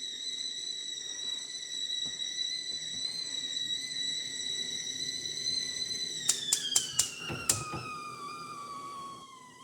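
BELANKO stainless steel stovetop kettle whistling at the boil: a steady high whistle for about six seconds. A few sharp clicks follow, and the whistle then slides down in pitch and fades.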